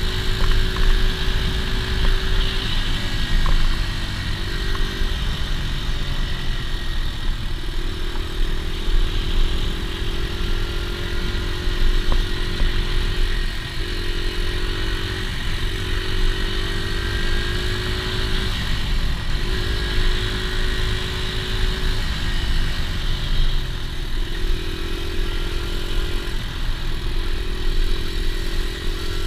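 Dirt bike engine running under way, its pitch climbing and dropping every couple of seconds as the throttle is opened and eased off.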